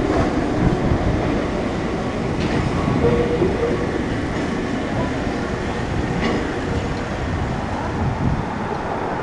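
Enoden (Enoshima Electric Railway) train running past on street-level track, a steady low rumble of wheels and motors with a few faint clicks.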